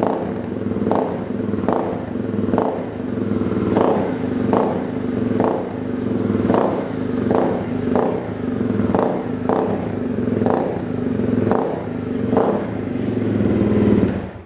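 Honda CRF250L single-cylinder four-stroke engine running through an FMF Powercore 4 exhaust without its quiet insert, with a regular pulse about every three-quarters of a second. It cuts off suddenly near the end.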